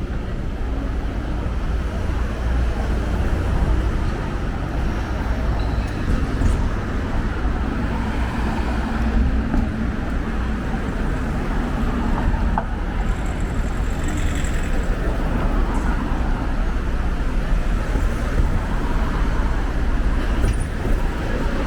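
City street traffic noise: a steady low rumble of passing motor vehicles.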